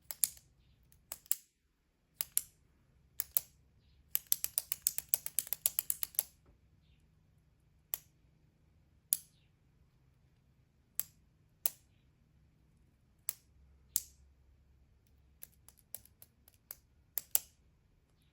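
Click pen's push button being clicked, in single clicks and quick pairs with pauses between, and a fast run of rapid clicks about four to six seconds in.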